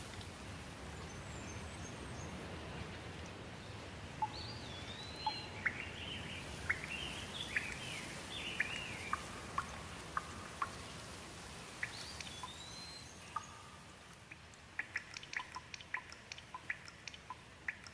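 Steady rain with a bird calling in short, sliding chirps through the middle. The rain eases about two-thirds of the way in, leaving quick, irregular water drips.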